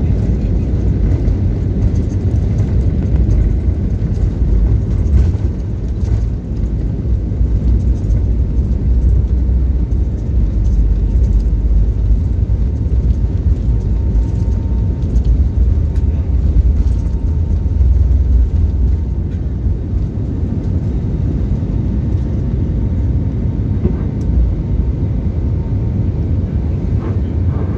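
Steady, loud low rumble of an Airbus airliner's engines and rushing air during takeoff, heard from inside the passenger cabin.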